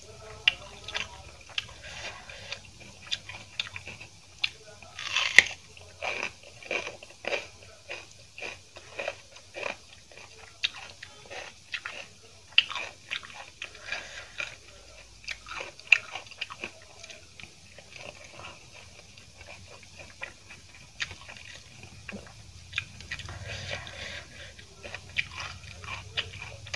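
Close-up crunchy chewing of raw bitter gourd, with many sharp crisp bites and wet mouth clicks. The crunching is densest in the first half and thins out later.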